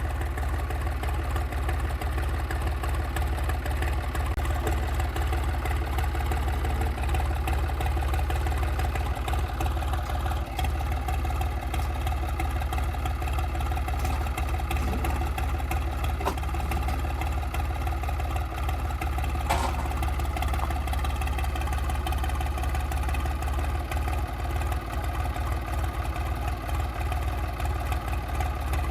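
An engine running steadily at low speed, near idle.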